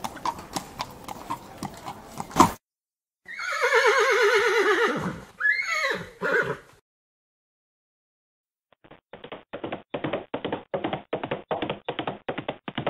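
Horse hooves clopping, ending in a sharp knock, then a horse whinnying: a loud neigh of about three seconds with a quavering, wobbling pitch that breaks into a shorter falling call. After a pause of about two seconds, a quick, even clopping starts, about four beats a second.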